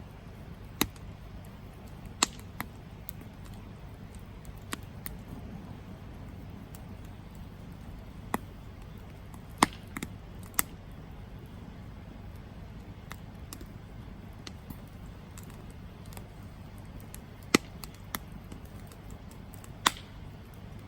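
Wood campfire crackling: sharp, scattered pops and snaps a second or several apart over a steady low background noise.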